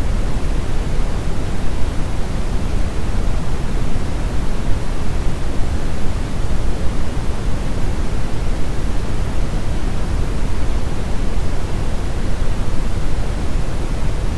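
Brown noise: a steady, even rush of synthetic noise, strongest in the low end and falling away towards the highs, unchanging throughout.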